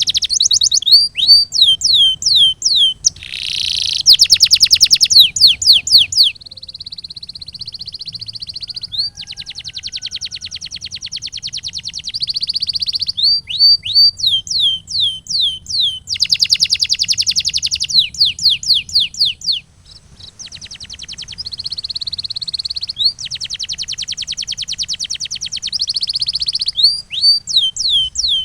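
Male domestic canary singing a long song in tours, switching between fast, even rolling trills and runs of separate falling whistled notes, several a second. There is a brief pause about twenty seconds in.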